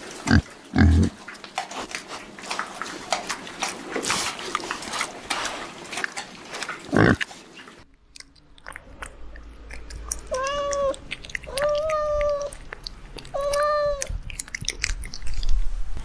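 Rapid crackling and clicking, like an animal chewing, broken by a few short low grunts or thuds. Then, after a cut, a kitten gives three short, high mews, each held on one pitch.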